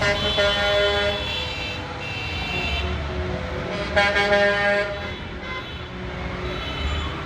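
Truck air horns blowing as trucks pass, over the low rumble of their engines: one horn blast at the start lasting about a second and a half, and a louder one starting sharply about four seconds in.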